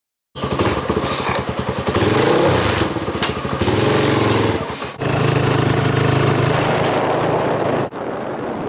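Motorcycle engine running, rising in pitch now and then as it revs, with abrupt cuts between short clips about five and eight seconds in.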